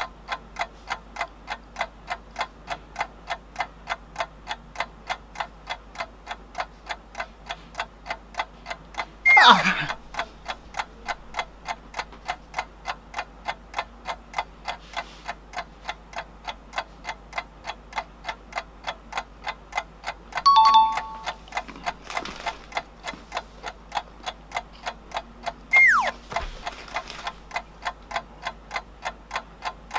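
Clock tick-tock countdown effect, evenly about two ticks a second, marking a one-minute timer. Twice, near a third of the way in and near the end, a short sound slides quickly down in pitch, and about two-thirds through comes a brief sound of a few steady tones.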